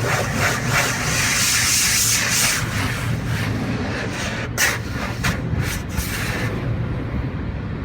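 Car-wash chemical spray hissing onto the car, heard from inside the cabin over a steady low rumble, with a few sharp spatters in the middle; the spray dies away near the end.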